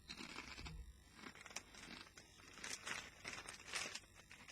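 Quiet, irregular crackling and crunching from a packet of riffled potato crisps being handled and eaten.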